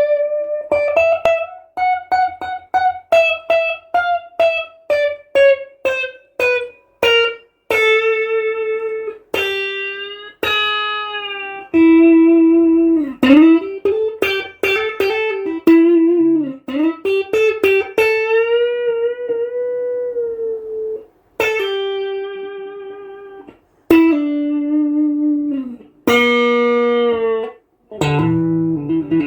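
Ash-bodied Strat-style electric guitar playing a single-note lead line: a run of short picked notes stepping downward, then longer held notes with string bends and vibrato. Several notes ring together near the end.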